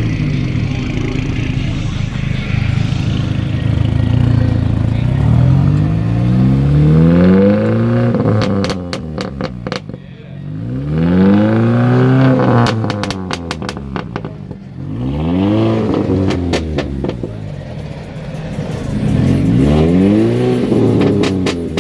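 Car engine revved hard, its pitch climbing and dropping about four times, with a run of sharp crackles around the middle.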